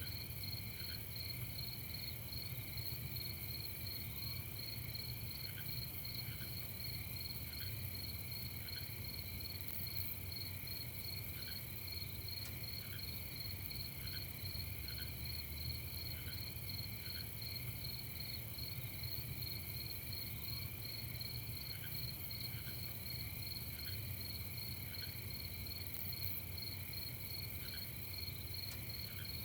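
Night insect chorus, crickets chirping in a fast, even pulse. A lower short chirp comes in every second or so over a steady low rumble.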